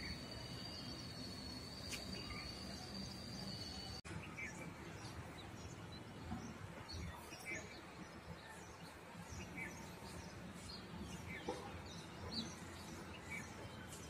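Small birds chirping, short high scattered calls over a low outdoor background. For the first four seconds a steady high-pitched whine runs underneath and stops abruptly.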